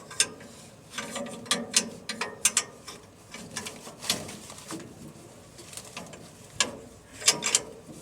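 A series of irregular sharp clicks and knocks, the loudest about two and a half seconds in and again about seven seconds in.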